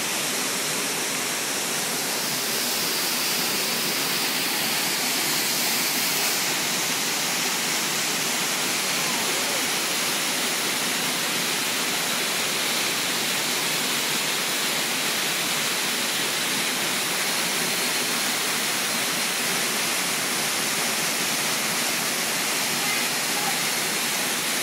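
Small waterfall: a steady, even rush of falling and splashing water, bright and hissing.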